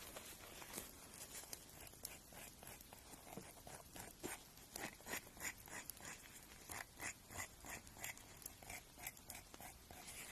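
Faint short scratchy strokes of nail grinding on a fingernail, repeated irregularly at about two or three a second and growing stronger about halfway through.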